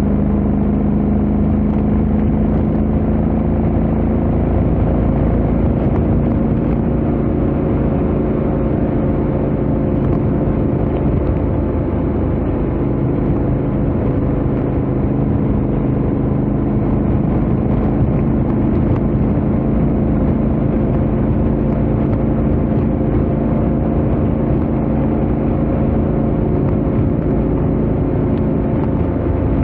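Honda X-ADV 750 parallel-twin engine and stock exhaust running at a steady highway cruise, its note holding almost constant pitch, over a low rush of wind and road noise.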